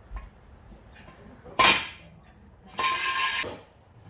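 A trolley jack being moved aside on a workshop floor: a sharp metallic clank about one and a half seconds in, then a rattling metallic stretch of under a second near the end.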